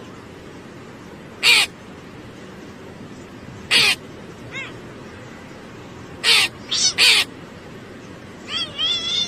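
An animal's short, sharp calls, each dropping in pitch, come singly at uneven gaps and then three close together. A quicker run of them follows near the end, over a steady background hiss.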